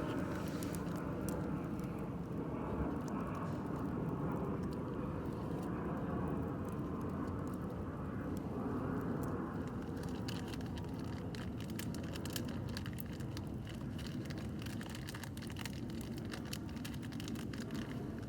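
Campfire crackling, with sharp pops that come much thicker from about halfway through. A steady low rumble runs underneath, easing off slightly near the end.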